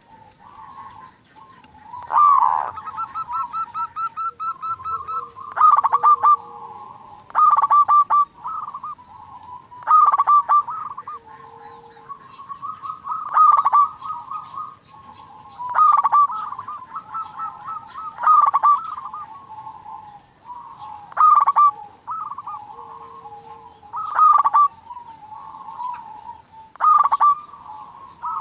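Zebra doves (perkutut) cooing: loud phrases recur every two to three seconds, each a quick run of clipped notes running into a drawn-out coo. Early on a fast, even trill of about a dozen notes sounds, and now and then a fainter, lower coo.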